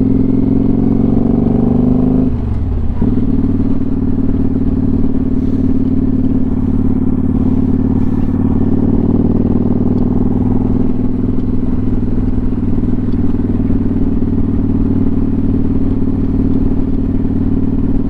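Motorcycle engine under way, heard from the bike, pulling up in pitch for about two seconds. Then it shifts up: the pitch drops sharply with a brief dip in level, and the engine settles into a steady cruise with slight rises and falls.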